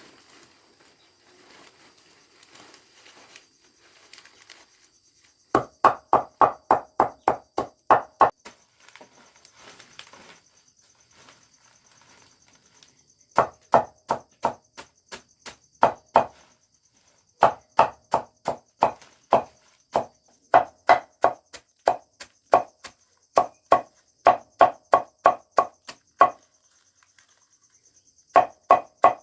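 Rapid chopping with a blade, about three to four strikes a second, in several bursts with short pauses between them.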